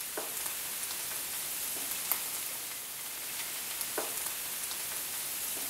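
Potato cubes sizzling in shallow oil in a frying pan: a steady high hiss with a few faint sharp ticks.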